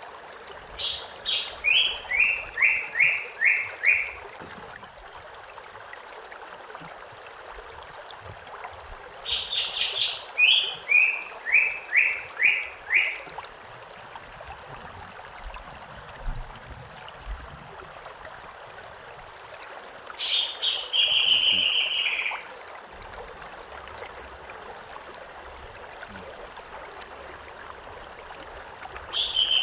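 A songbird sings a phrase of quick notes that step down in pitch, repeating it about every ten seconds, three times plus a short start at the end, over the steady rush of a stream.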